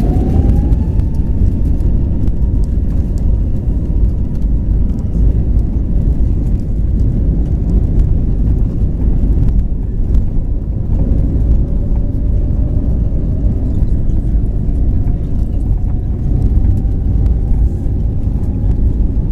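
Airbus A320 cabin noise: a heavy, steady low rumble with the jet engines' drone. A faint engine tone rises in pitch in the first second, then rises again slowly over the last eight seconds.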